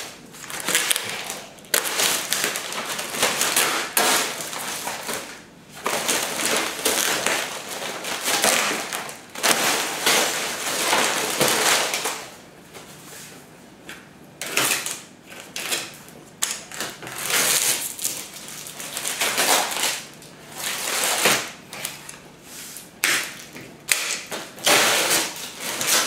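Beehive parts being unwrapped and handled: repeated bursts of rustling, crinkling packaging with a few knocks and clicks in between.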